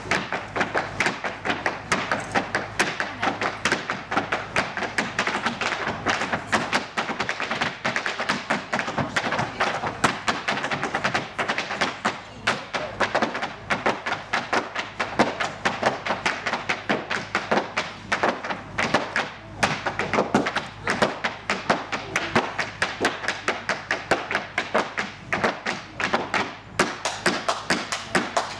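Irish dancers' hard shoes beating out rapid, rhythmic taps and stamps on a wooden floor, with music running underneath.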